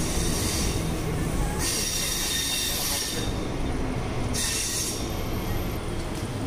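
Mumbai suburban local train running along a station platform, heard from the open doorway on board: a steady rumble, with a high hissing squeal that rises about one and a half seconds in, lasts about a second and a half, and comes back briefly about four and a half seconds in.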